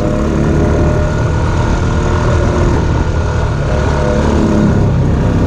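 Off-road vehicle engine running steadily under way on a trail, its pitch shifting a little with the throttle.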